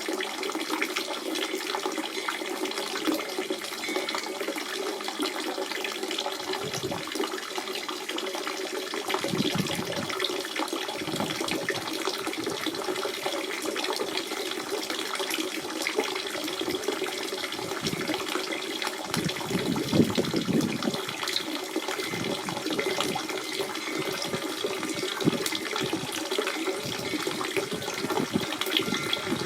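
Natural spring water running and splashing in a steady flow, with irregular low gurgles coming and going from about a third of the way in.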